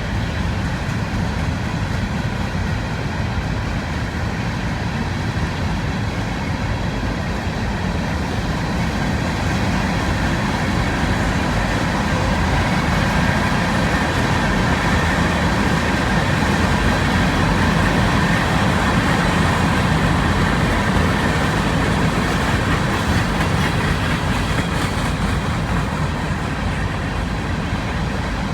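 Loaded freight cars of a Union Pacific rock train rolling past, a steady rumble of steel wheels on rail that swells a little toward the middle.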